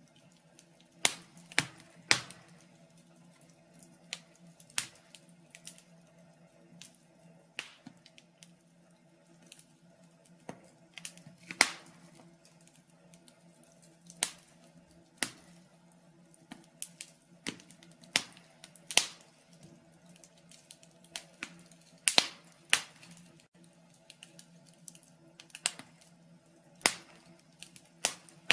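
Wood fire in a fireplace crackling, with irregular sharp pops and snaps a few seconds apart over a faint steady low hum.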